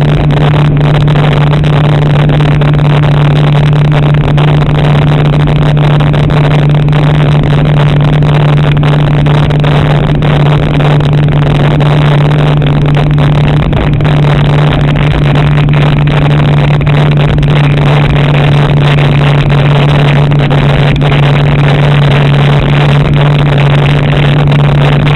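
Jet ski engine running loud and close at a steady, unchanging pitch, over a constant rush of noise.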